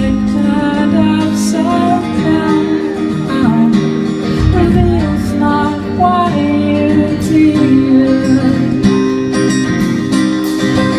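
Live band music with acoustic guitar to the fore, over sustained lower tones and a moving melody line.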